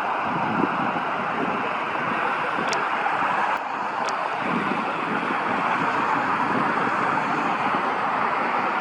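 Steady rushing roar of jet aircraft engines, slowly growing louder.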